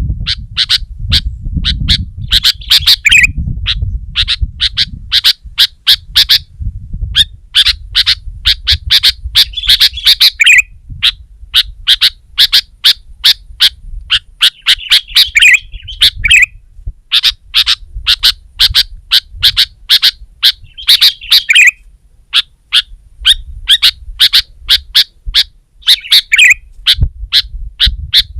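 Sooty-headed bulbul (kutilang) calling excitedly: fast runs of short, sharp chattering notes, about five a second, broken by brief pauses, each run often ending in a lower slurred note. A low rumble sits under the first several seconds.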